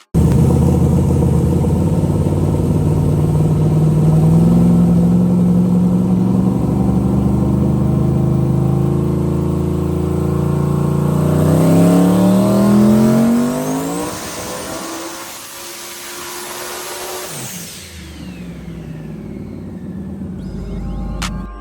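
Twin-turbocharged V8 with GTR 5088 turbos running hard on a hub dyno, its pitch climbing steadily through a pull until it lets off about two-thirds of the way in. After that a high turbo whistle sweeps away and the engine drops back to a quieter, lower running sound.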